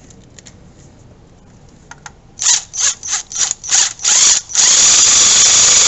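Power drill running in about six short trigger pulses, then held on steadily for nearly two seconds.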